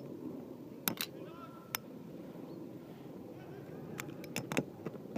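Beyblade spinning tops whirring against the plastic stadium floor during a battle, with sharp plastic clacks as they strike each other or the wall: two near one second in, one a little later, and a quick run of four near the end.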